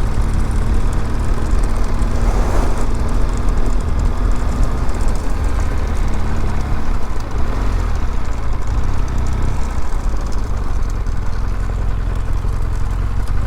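BMW R1200GS boxer-twin engine running as the motorcycle rides along, with a steady low rumble of wind and road noise picked up by the helmet microphone.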